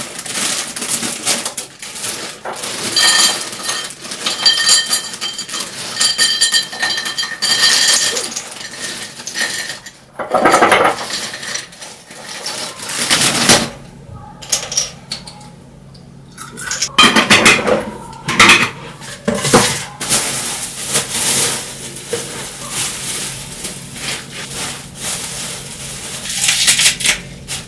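Dishes and cutlery clattering and clinking during kitchen work, with several ringing clinks in the first several seconds. A steady low hum comes in about halfway through.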